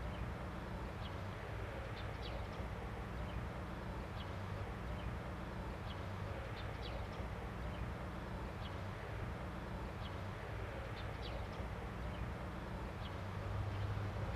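Small birds chirping, with short high calls about once a second, over a steady low outdoor rumble that swells slightly near the end.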